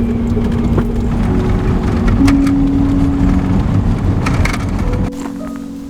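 A vehicle's low, steady driving rumble with music playing over it, the music holding notes that step to new pitches. The rumble stops suddenly about five seconds in, and the music carries on.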